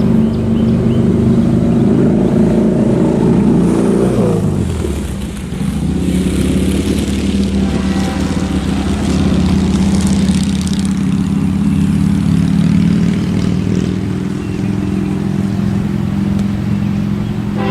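Diesel freight locomotive passing close, with a loud, steady pitched drone. The pitch falls about four seconds in as the locomotive goes by, then holds steady while the train rolls on, with a hiss of wheels on rail partway through.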